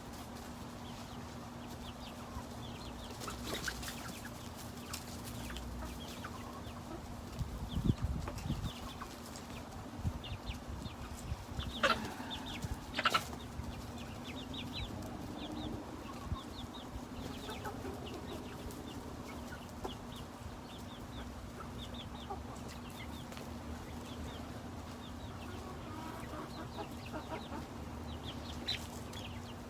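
Chickens clucking in short, scattered calls while they are fed, with a few sharp knocks about halfway through.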